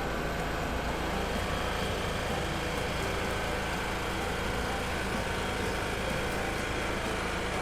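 Heavy vehicle engine running steadily at an even level.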